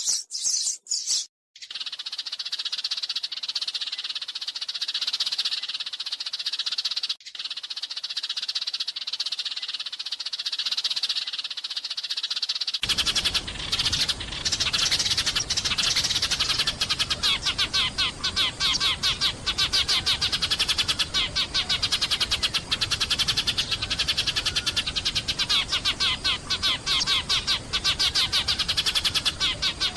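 A flock of sparrows chirping and chattering without pause. About 13 seconds in, the recording changes: a steady hiss comes in underneath, and the chirps turn faster and denser.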